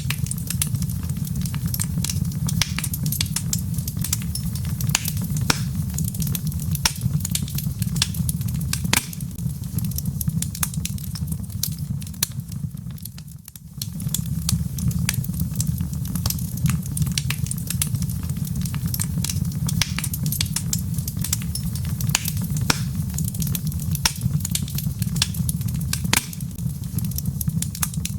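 Log fire crackling in a fireplace: dense, irregular sharp pops and snaps over a steady low rumble. The whole sound dips briefly about halfway through and comes back as before.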